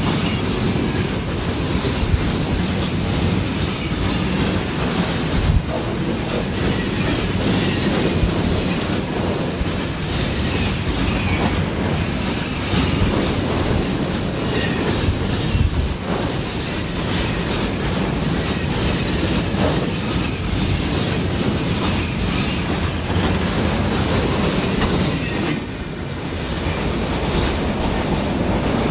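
Freight train rolling past steadily, its wagon wheels clattering over the rail joints.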